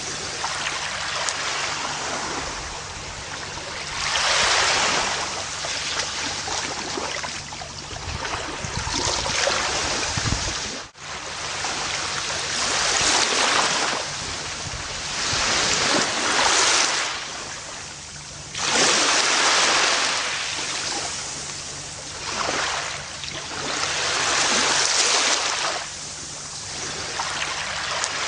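Gentle ocean waves breaking and washing up on a beach, each surge swelling and fading every few seconds. There is a momentary dropout about eleven seconds in.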